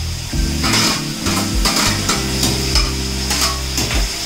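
Onions and chopped tomatoes sizzling in a hot steel kadai, with repeated scrapes and clicks of a slotted metal ladle on steel as the tomatoes are pushed in and stirred.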